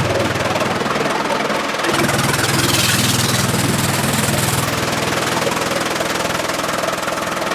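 A machine's engine running steadily, with a low hum and mechanical noise; the sound changes character about two seconds in.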